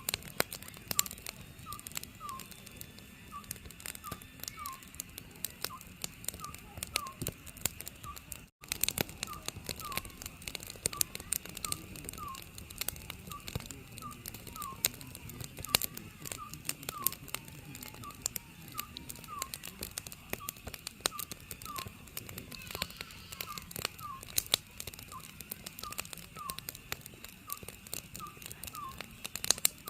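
Oriental scops owl calling, a short two-note whistled hoot repeated about every second and a half, over the steady popping and crackling of a burning wood fire. The sound cuts out for an instant about eight seconds in.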